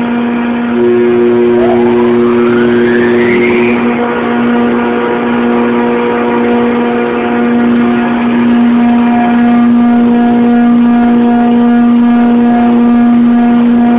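York screw compressor running loud with a steady, even hum. Near the start a rising whine climbs for about two seconds and stops, and a second steady tone drops out at the same time.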